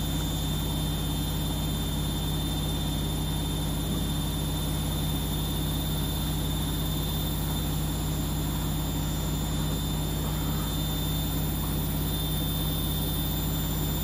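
Siemens washing machine running mid-programme, with a steady, unchanging motor and drum hum.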